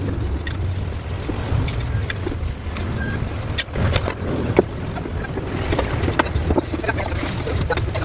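A steady, low engine hum with many short clicks and knocks scattered through it.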